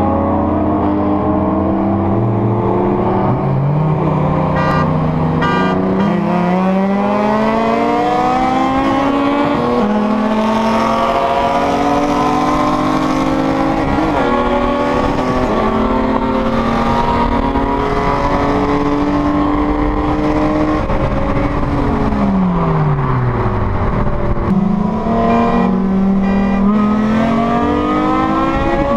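BMW E36 M3's straight-six, fitted with an aftermarket intake and X-pipe, heard from inside the cabin under hard acceleration, its pitch climbing with the revs. About 22 seconds in the revs fall away for a couple of seconds, then it pulls and climbs again.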